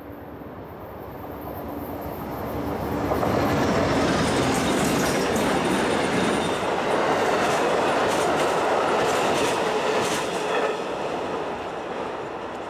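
Amtrak passenger train passing at speed, its wheels clattering over the rail joints in a run of clicks, with a faint high wheel squeal. The noise builds over the first three seconds, holds loud, and eases off near the end.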